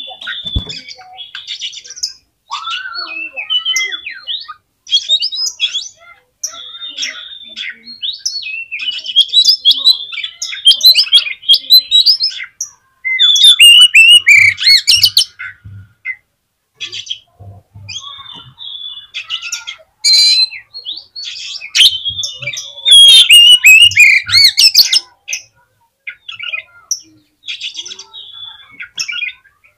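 Oriental magpie-robin (kacer) singing a varied song of whistles, slurred notes and rapid chattering phrases, in loud bursts separated by short pauses, the loudest runs about halfway through and again past two-thirds of the way.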